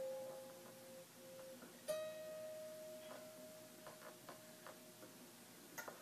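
Quiet plucked guitar notes: one held note fading away, then a new note struck about two seconds in that rings out and slowly dies, with a few faint clicks.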